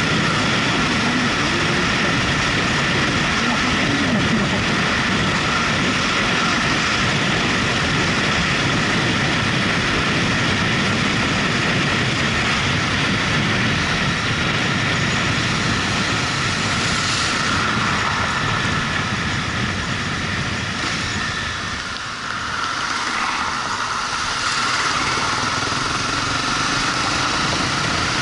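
Steady wind and road noise from a moving motorcycle, a dense rushing roar with the engine running underneath. It eases briefly about three-quarters of the way through, then picks up again.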